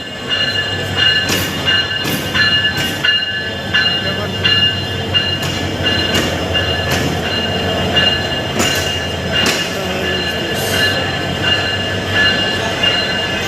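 A train at a station: a low rumble under a steady high-pitched squeal, with irregular clanks and knocks.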